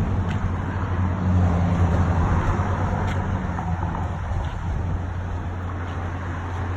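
Steady low engine hum with traffic-like noise, as of motor vehicles running nearby.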